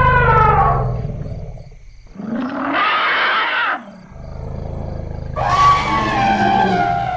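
Elephants calling: a long moaning call that falls in pitch, a short harsh trumpet blast about halfway through, then another long call falling in pitch near the end, over a low throbbing rumble.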